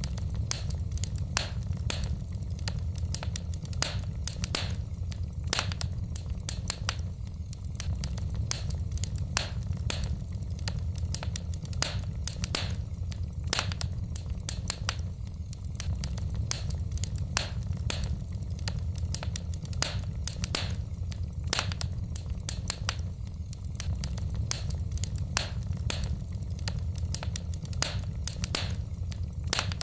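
Wood fire burning in a fireplace: the logs crackle and pop in irregular sharp snaps over a steady low rumble of the flames.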